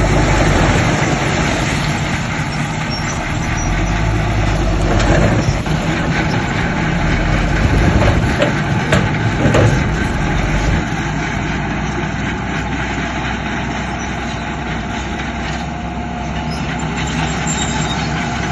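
Diesel engines of heavy earthmoving machinery running under load, with a few sharp clanks in the middle. The deep engine rumble eases about eleven seconds in.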